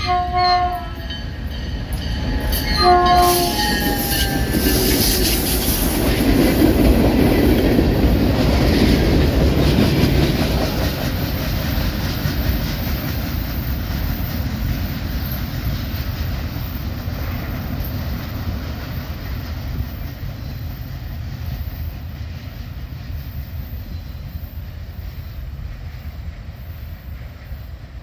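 Two short blasts on a locomotive's multi-chime horn, an EMD SD38AC's Nathan P3. Then the diesel locomotives and freight cars rumble past with wheel clatter, loudest a few seconds after the horn and fading away.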